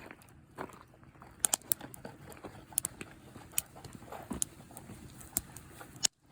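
Campfire of hinoki asunaro (ate) stick firewood crackling: irregular sharp pops and snaps, a few much louder than the rest, over the low hiss of the flames. The sound drops out briefly near the end.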